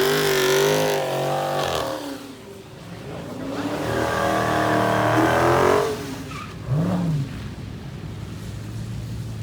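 A car engine revved hard at a standstill: it is held high for a couple of seconds, drops away, then climbs and is held high again. A short blip of the throttle follows about seven seconds in before the engine settles to a lower, steadier running note.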